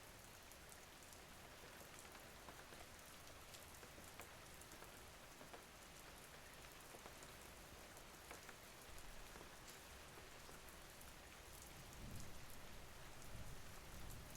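Steady light rain falling, a soft hiss with scattered small drop ticks, and a low rumble swelling in about twelve seconds in.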